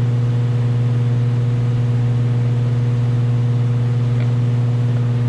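Steady low electric motor hum with a fainter higher overtone, unchanging throughout, from running paint-shop machinery.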